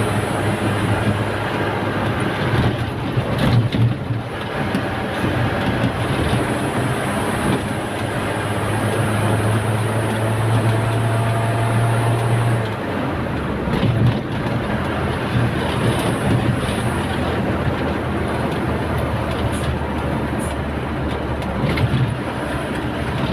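Truck engine running under way with steady road and tyre noise; about halfway through, the engine note drops lower.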